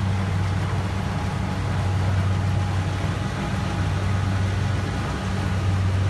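Engine of a rice combine harvester running steadily, a constant low drone.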